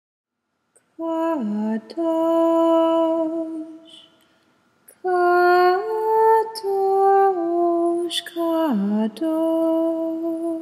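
A woman singing slow, wordless held notes in two phrases, each note held steady before stepping to the next, with a sharp downward slide about a second in and again near the end.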